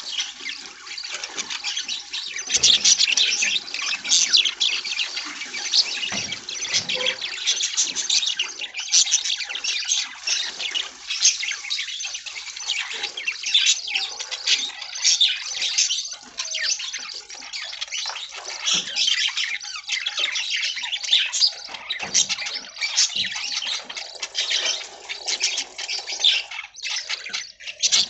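A flock of budgerigars chattering: many fast, overlapping chirps and warbles, with no break.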